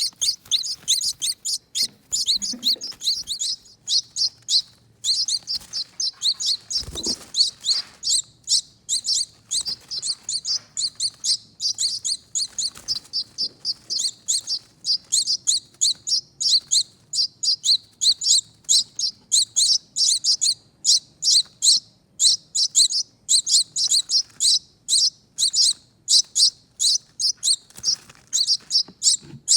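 Baby finches giving a fast, continuous string of high, short begging chirps, about three or four a second, as they are fed. A brief soft thump sounds about seven seconds in.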